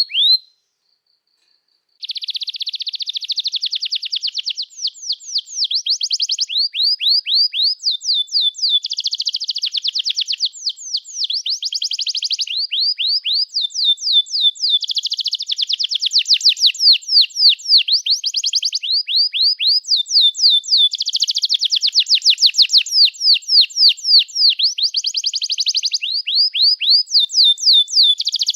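Domestic canary singing a long, continuous song: fast rolls of down-slurred notes alternate with buzzy trills and short held whistled notes, phrase after phrase. It cuts out for about a second and a half just after the start, then runs on without a break.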